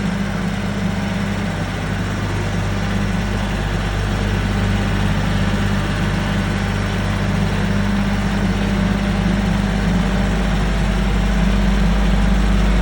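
Tractor engine running steadily at low revs, a constant hum that grows gradually louder toward the end.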